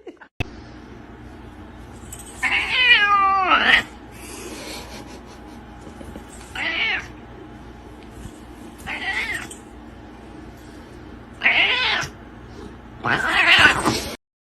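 A cat meowing five times. The first call is long and drawn out, falling in pitch, and the later four are shorter.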